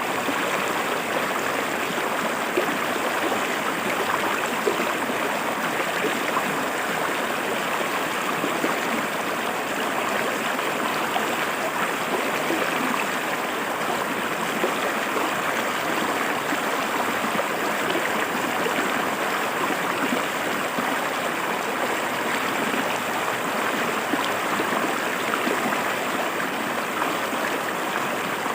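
River water flowing and splashing over rocks: a steady rushing and gurgling with small splashes, unchanging throughout.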